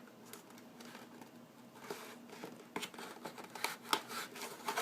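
A shipping package being cut and pried open with a chef's knife: scattered crackles, crinkles and tearing of the packaging, sparse at first and coming thicker from about three seconds in.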